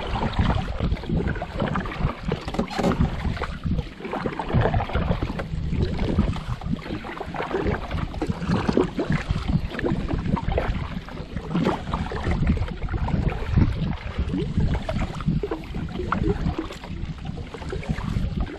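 Loud wind buffeting the camera microphone as a steady, fluttering rumble, with water splashing beneath it, as from a kayak on open water.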